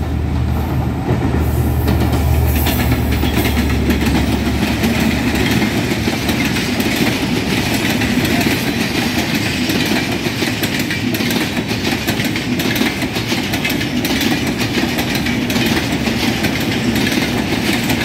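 Bangladesh Railway intercity passenger train passing close at speed. The diesel locomotive's low engine drone fades about two seconds in. After that the coaches roll by with a steady rumble and a fast clickety-clack of wheels over the rail joints.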